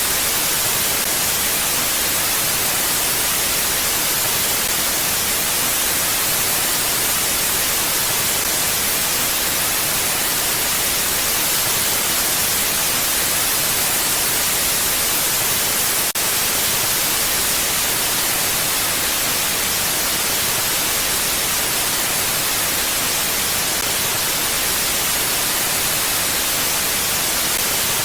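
Steady mountain wind, an even hiss with no gusts, strongest in the high range. There is a faint click about 16 seconds in.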